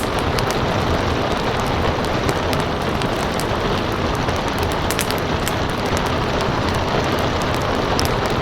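Steady rain with a crackling wood fire: an even wash of rain under scattered sharp pops and snaps.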